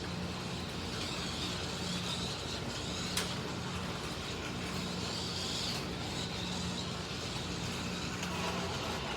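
Slot cars running laps on a track: their small electric motors whir steadily, with one sharp click about three seconds in.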